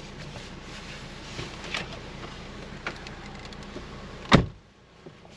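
Vehicle idling with a few small clicks, then a car door shuts with a loud thump about four seconds in, after which the engine sound is muffled and much quieter.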